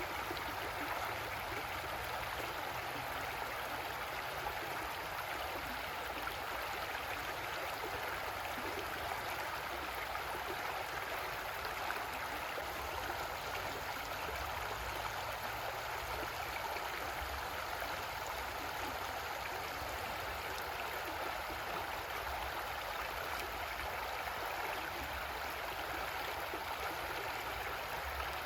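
Creek water flowing and rushing steadily over rocks, an even splashing hiss with no pauses.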